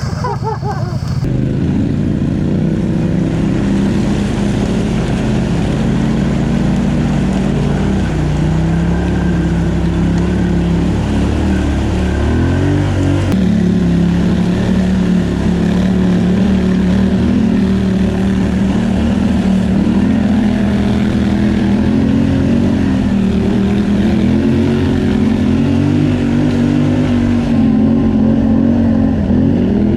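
ATV engine running while riding a trail, pitch rising and falling with the throttle.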